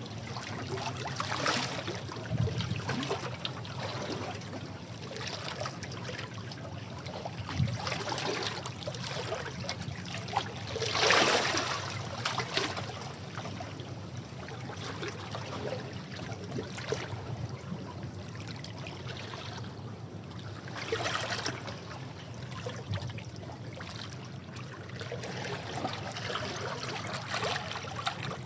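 Sea waves washing against rocks, surging and draining back in an uneven rhythm, with the loudest wave breaking about eleven seconds in.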